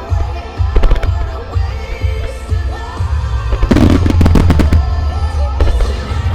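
Fireworks shells bursting over the show's music soundtrack, which runs with a steady beat. A few sharp bangs come about a second in, then a dense rapid volley of bangs near the middle, and more bursts near the end.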